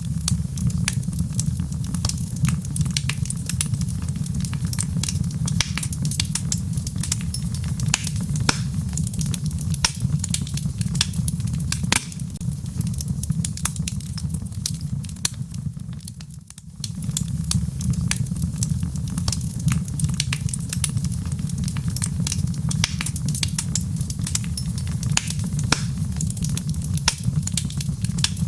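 Log fire burning in a fireplace: a steady low rumble of flames with frequent sharp crackles and pops from the burning wood. The sound dips briefly a little past halfway.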